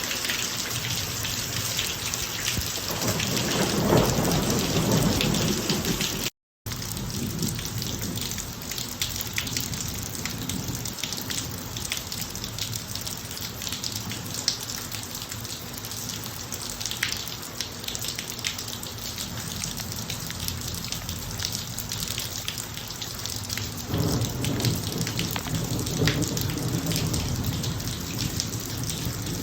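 Steady rain falling on a driveway, with thunder rumbling a few seconds in and again near the end. The sound cuts out completely for a split second after the first rumble.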